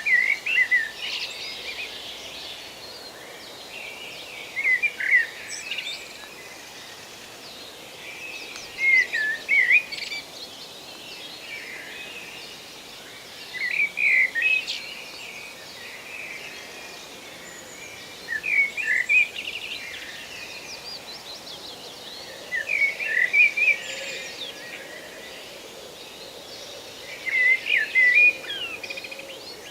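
Forest ambience: a songbird repeats the same short warbled phrase about every four to five seconds, seven times, over a steady background hiss, with fainter chirps from other birds between.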